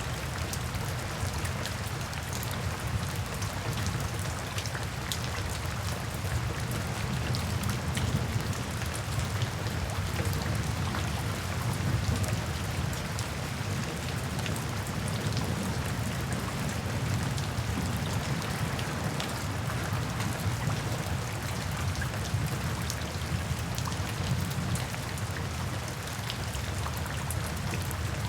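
Steady rain falling, with many individual drops pattering sharply on a hard surface over a continuous low rumble.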